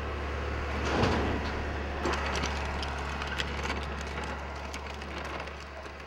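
A demolition excavator's diesel engine runs steadily as wood cracks and splinters, loudest about a second in, followed by scattered knocks and cracks of debris.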